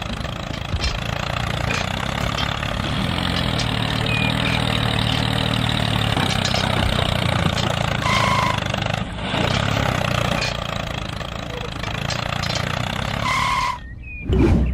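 Engine running steadily, a low even hum with a few short high chirps over it. It drops away briefly near the end.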